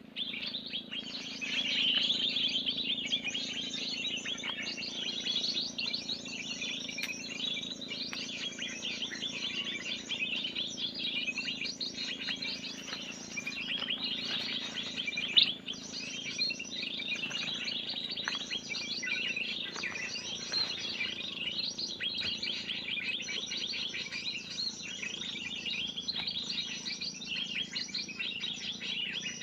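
Busy chorus of many small birds chirping and chattering without pause, the 'ribut' (commotion) lure call used to draw in birds such as spiderhunters. It starts abruptly, with one sharp click about halfway through.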